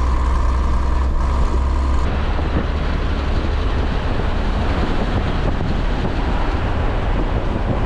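A 1989 Scania 93M 280 lorry's straight-six diesel engine running on the move. About two seconds in, the steady engine note gives way to a broader rush of road and wind noise.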